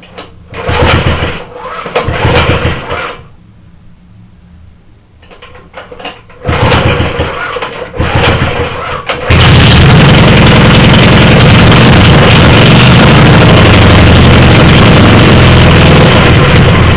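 Rebuilt 75cc Suffolk two-stroke engine being pull-started. The first pull doesn't catch; it fires on the second pull about nine seconds in and then runs steadily and loud.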